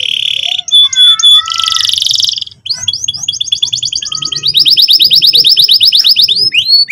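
Domestic canary singing: harsh, buzzy phrases at first, then a long rapid trill of repeated down-slurred notes from about three seconds in, at about ten notes a second, growing louder partway through.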